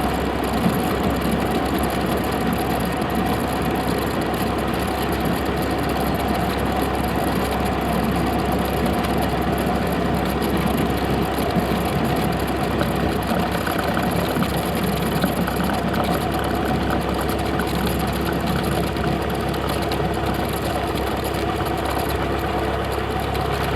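Cessna 172's piston engine and propeller running steadily, a constant even drone with no change in pitch.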